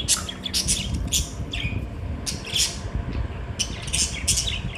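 Tame pet birds giving short, harsh squawks and chirps in quick succession, several a second, over a steady low rumble.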